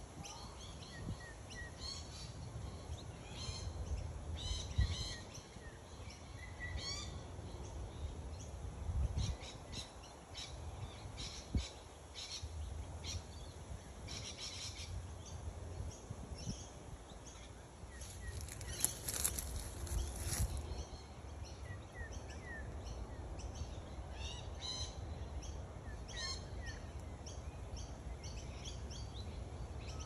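Small birds chirping and calling in short repeated bursts, over a low steady rumble.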